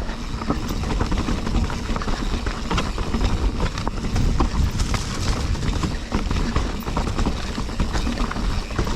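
Full-suspension mountain bike ridden over a rocky trail: a constant run of knocks and rattles from the tyres and bike hitting rock, over a low rumbling rush.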